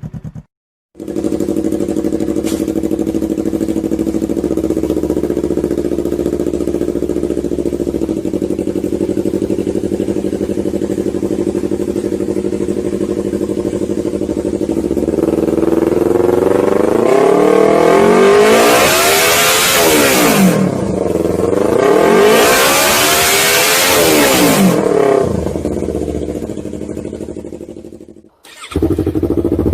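Yamaha MT-03 motorcycle on an aftermarket exhaust, idling steadily, then revved twice in the second half, each rev rising in pitch and dropping back to idle.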